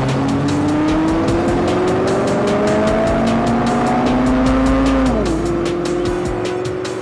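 Aston Martin Virage V8 accelerating away, its engine note climbing steadily for about five seconds. The note drops sharply with an upshift and then pulls on at a steady pitch. A music track with a regular beat plays underneath.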